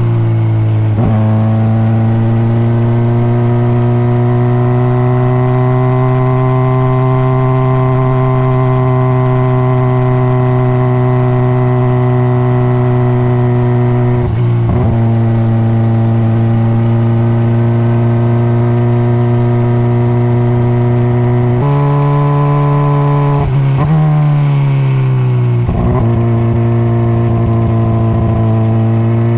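Honda CBR600RR's inline-four engine on the stock exhaust, heard from on board, holding a steady note for long stretches. The pitch briefly dips and recovers a few times as gears change, jumps up sharply once, then falls and rises again near the end.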